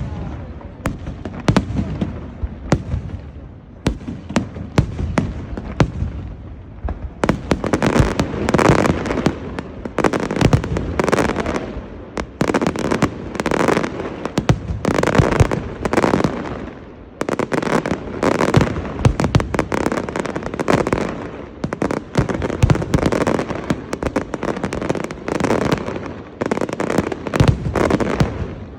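Large aerial fireworks barrage: rapid sharp bangs of bursting shells, thickening from about seven seconds in into repeated waves of dense crackling explosions.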